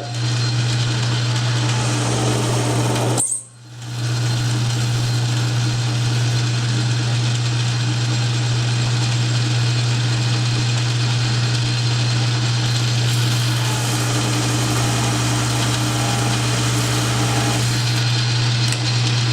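South Bend metal lathe running steadily with a strong low hum while taking a cut on a pulley blank. The sound drops out briefly about three and a half seconds in, then picks up again.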